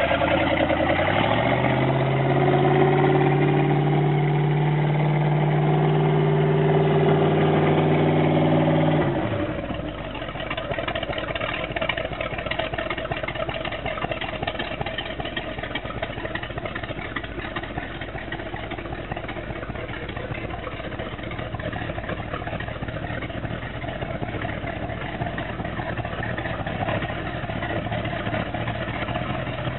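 Boat's 502 big-block Chevrolet V8 revved up about a second in and held at raised rpm, then dropping abruptly back to idle about nine seconds in and idling steadily for the rest.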